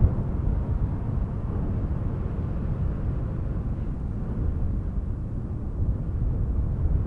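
Breeze blowing steadily: a low, even rush of wind without breaks.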